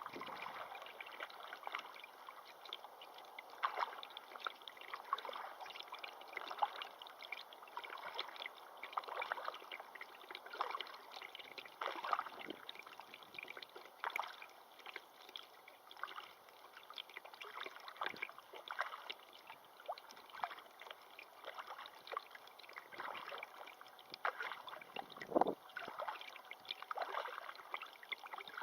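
River water lapping and gurgling, a steady run of small irregular splashes and trickles.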